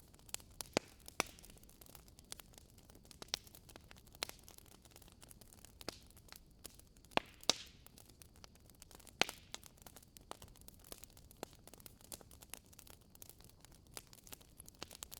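Wood fire in a fireplace crackling, with irregular sharp pops over a soft hiss; a few louder pops come about a second in, around seven seconds and around nine seconds.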